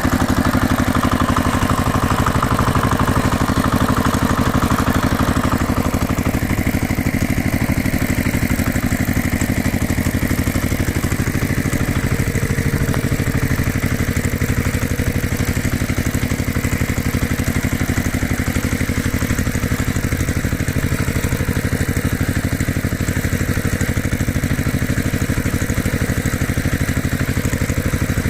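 Heavy diesel engine running steadily at a constant pulse, with a brighter mid-pitched whine over it for roughly the first six seconds.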